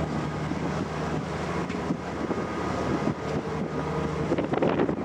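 Sightseeing cruise ship under way: a steady low engine drone with a rushing wash of water and wind noise over it.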